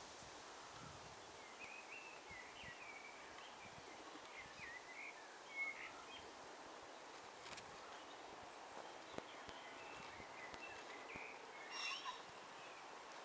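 Faint outdoor ambience with small birds chirping and twittering in short, quick phrases, in two spells, the second near the end.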